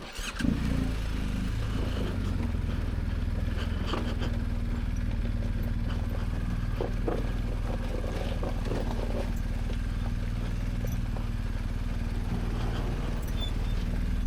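BMW R1250GSA's boxer-twin engine starting about half a second in, then idling steadily at an even pitch. There are a few scattered clicks and knocks over it.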